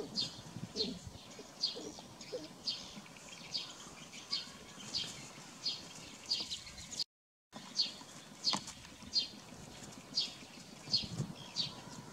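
Short high chirps, each dropping in pitch, repeated steadily about twice a second: a bird calling over and over. The sound cuts out for about half a second around seven seconds in.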